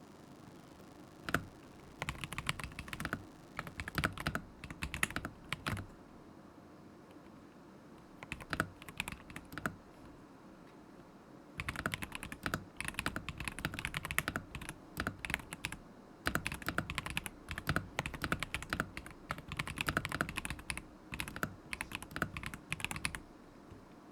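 Typing on a KZZI K75 Pro mechanical keyboard with Moment linear switches: rapid key clacks in bursts of a few seconds, with short pauses between, the longest burst running for about twelve seconds in the second half before stopping near the end.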